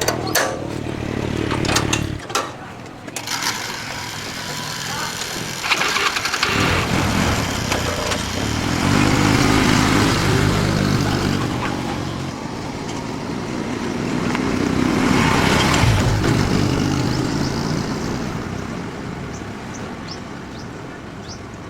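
A motor vehicle's engine running, swelling louder about ten seconds in and again around fifteen seconds, then easing off, with a few clicks at the start.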